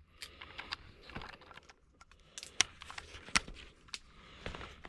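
Irregular light clicks and rattles of small hard objects being handled, with two sharper clicks around the middle.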